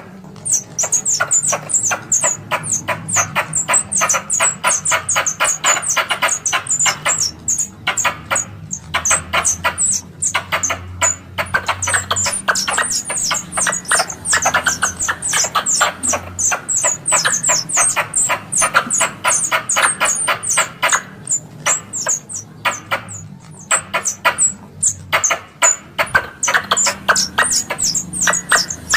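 Squirrel lure call for hunting: a fast, continuous chatter of sharp chips, several a second, each ending in a short falling high squeak. It breaks off briefly a few times.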